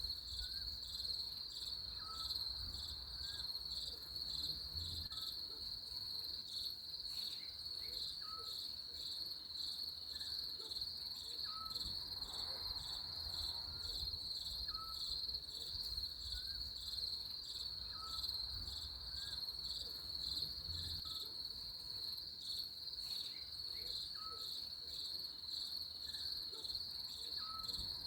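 Crickets chirping in a steady, pulsing high-pitched chorus. A softer, lower short chirp repeats about every second or so underneath.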